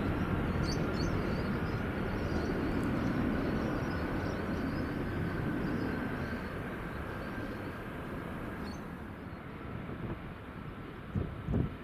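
Jet airliner's engines after takeoff, a broad rumble with a faint steady whine that slowly fades as the aircraft climbs away. Two short low thumps near the end.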